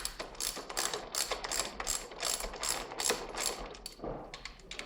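Hand ratchet clicking in quick, even strokes, about five clicks a second, as it turns out the 12 mm hex bolts of the front brake calipers on a Yamaha R1; the clicking thins out near the end.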